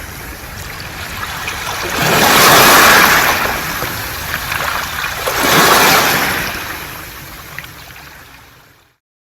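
Waves washing onto a beach of smooth round pebbles, two surges about three seconds apart with the stones rattling in the wash; the sound fades and cuts to silence just before the end.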